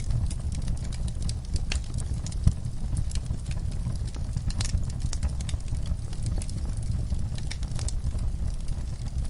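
Wood fire burning in a fireplace: a steady low rumble of the flames with frequent sharp crackles and pops from the burning wood, one louder pop about two and a half seconds in.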